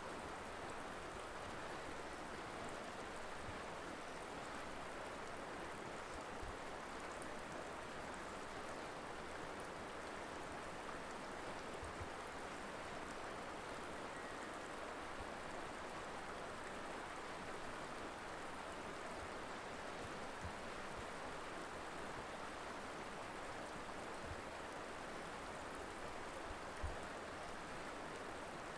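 River water flowing over rocks, a steady rushing babble with a few faint low knocks.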